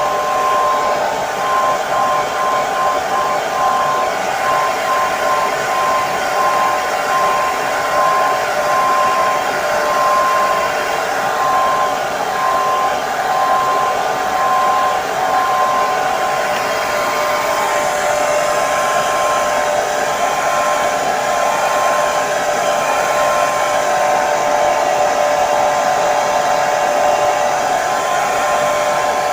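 Hair dryer running steadily: an even blowing whir with a constant motor whine.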